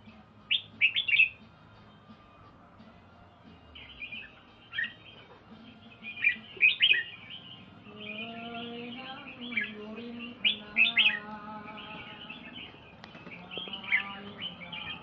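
A pet songbird singing: short, bright chirping phrases repeated every second or two, with a lower, pitched sound running underneath through the middle.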